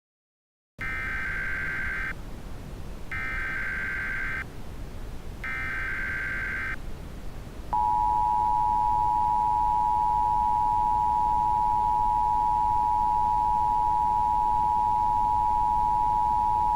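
Emergency Alert System alert tones: three harsh, buzzing bursts of SAME digital header data, each a little over a second long with a second's gap between them. About eight seconds in, the steady two-tone EAS attention signal starts and holds.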